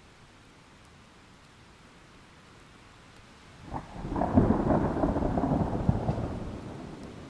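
Faint steady rain, then a sudden clap of thunder about halfway through that rumbles for a few seconds and fades toward the end.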